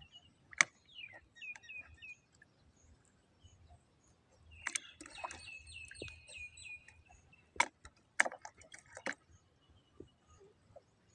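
Short, high chirping calls that glide downward, with a rapid run of them about four and a half seconds in, mixed with a few sharp clicks.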